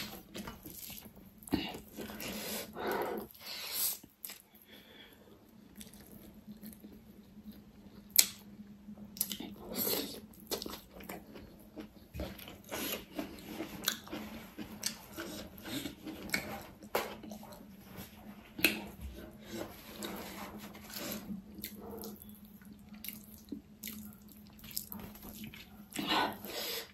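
Close-miked eating sounds: wet chewing and lip smacks with irregular soft clicks, as rice and pork trotters are eaten by hand.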